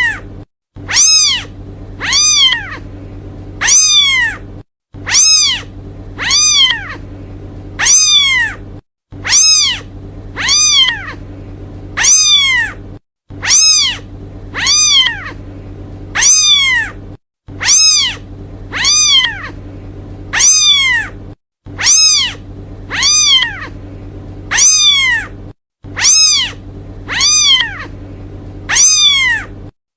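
Kitten meowing over and over to call its mother: high-pitched meows about once a second, each rising and then falling in pitch. A faint low steady hum sits underneath.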